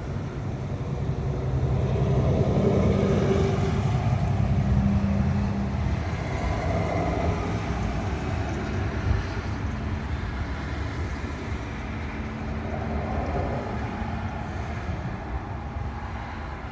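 Low rumble of a passing vehicle with a faint engine hum, building over the first few seconds and then slowly fading.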